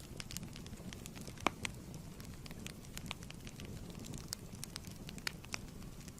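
Wood fire crackling in a fireplace: a steady low rumble of flames with irregular sharp pops, one louder pop about one and a half seconds in.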